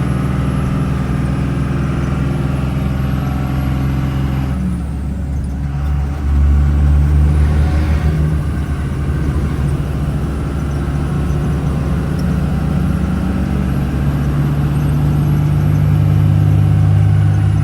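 1976 Dodge W600 Power Wagon's 5.9-litre Cummins diesel running under load. Its note dips about four and a half seconds in, comes back deeper and louder just after, and builds again near the end.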